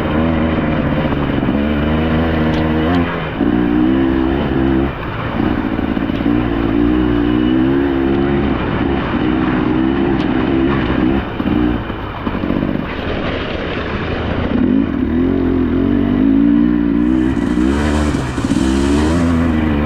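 KTM EXC 300 two-stroke enduro motorcycle engine running under load, its pitch rising and falling over and over as the throttle is worked.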